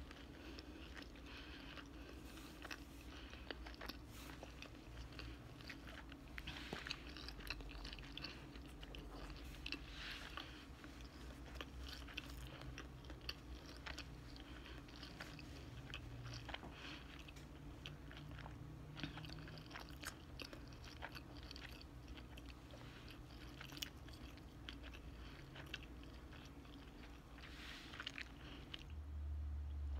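Faint close-up chewing and biting of a slice of pepperoni pizza, with many small crunches and mouth clicks throughout. A brief low bump comes near the end.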